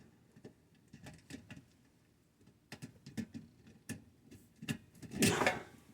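Small metal parts of a water-pump pressure switch and its wiring being handled: scattered light clicks and taps, with a louder scraping rustle about five seconds in.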